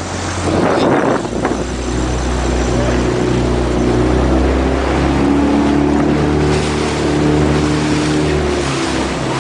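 Small motorboat engine running steadily at a low, slightly shifting pitch, with wind and water rushing past.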